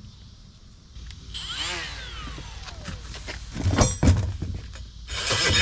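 A die grinder with an abrasive disc is briefly run up and then winds down, its whine falling in pitch. This is followed by a few loud knocks and clunks, and a louder, dense noise starts just before the end.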